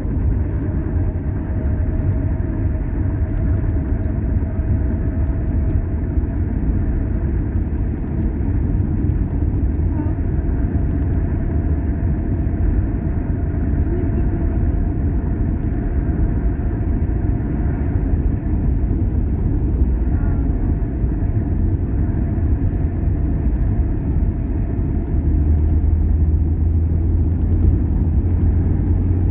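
A road vehicle driving, with a steady low rumble of engine and tyres and a faint held tone above it. It grows a little louder near the end.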